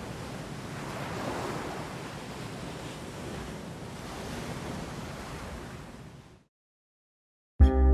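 Ocean waves washing in, in slow swells every few seconds, fading out about six and a half seconds in. After a second of silence, music starts right at the end.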